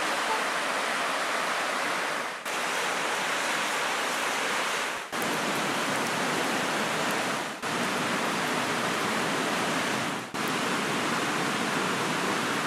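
Steady rushing of flowing water, like a stream or small waterfall. It drops out briefly about every two and a half seconds, as if pieced together from short clips.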